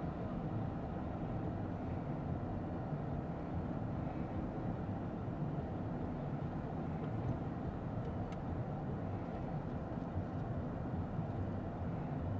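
Steady low hum of a Lexus ES 350 F Sport sedan heard from inside the cabin: engine and tyre noise with no distinct events.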